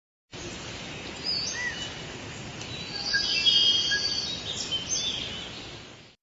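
Several birds chirping and calling, with short gliding notes over a steady background hiss; it grows louder in the middle and fades out near the end.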